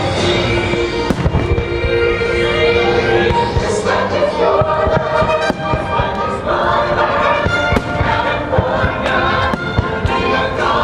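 Fireworks bursting, many irregular bangs and crackles, over a loud show soundtrack of orchestral music with a choir singing.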